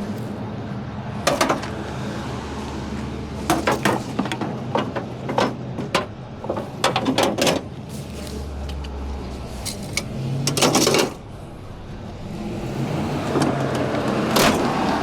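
A vehicle engine idling steadily, with a string of separate clicks, clunks and rattles of equipment being handled, and one louder clatter about two-thirds of the way in.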